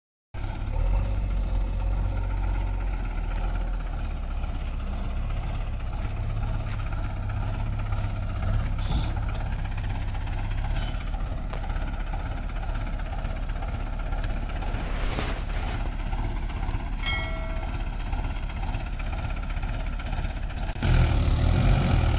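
Heavy diesel engine running steadily with a low rumble, getting louder shortly before the end.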